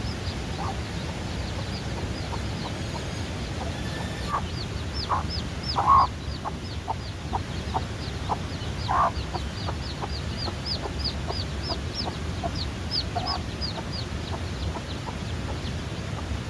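Newly hatched chicks peeping, a rapid run of short, high, falling cheeps. A chicken clucks among them now and then, loudest about six seconds in.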